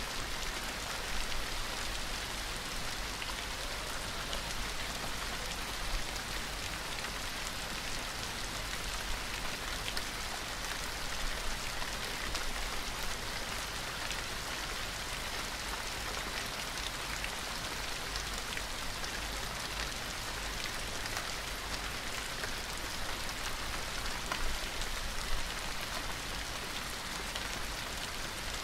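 Steady rain falling, with a constant hiss and many individual drops ticking on a surface, under a faint low rumble.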